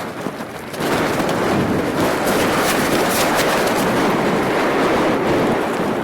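Strong blizzard wind blasting across the microphone, a gust surging up about a second in and holding, with scattered ticks over the rush.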